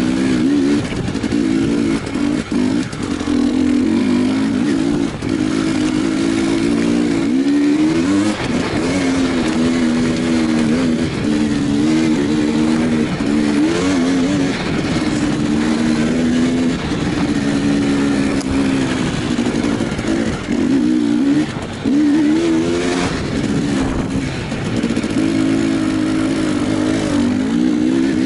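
Enduro motorcycle engine revving up and down again and again as it is ridden at slow, uneven speed over rough trail.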